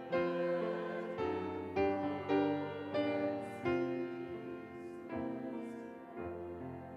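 Slow solo piano music, with notes and chords struck about once a second and the sound gradually dying away toward the end.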